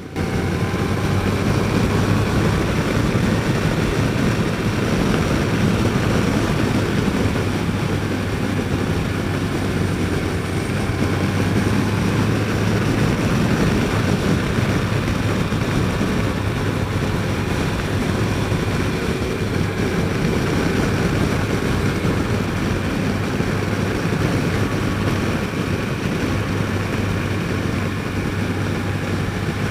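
Motorcycle cruising at a steady pace, its engine a low, even hum under heavy wind and road noise picked up by the helmet mic.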